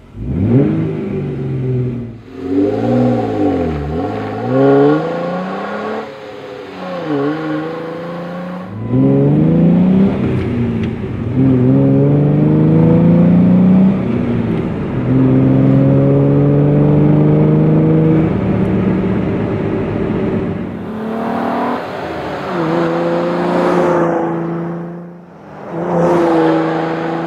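Jeep Wrangler JK's 3.6L V6 through a Flowmaster Force II axle-back exhaust with an 80 Series cross-flow muffler. It revs up and down several times, then accelerates through the gears, its pitch climbing and dropping back at each shift, and revs again near the end.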